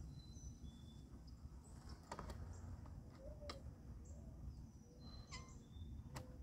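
Faint songbird chirps, short and high, near the start and again about five seconds in, over a steady low rumble, with a few faint sharp clicks.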